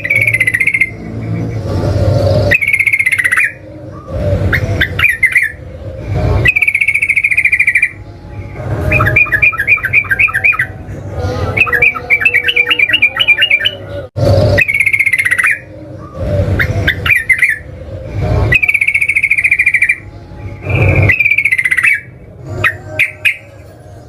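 Yellow-vented bulbul (trucukan) singing loudly: repeated bubbly whistled phrases, some breaking into fast chattering trills of many quick notes.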